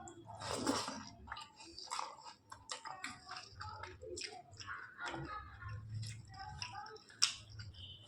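A person chewing a mouthful of rice and chicken curry, with irregular wet smacks and small mouth clicks, and one sharper click a little past seven seconds in.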